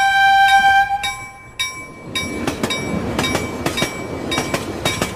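Bell-like intro chimes strike and ring out for the first two seconds; then a passenger train runs past close by, a rising rumble with its wheels clattering over the rails, while fainter chimes keep striking over it.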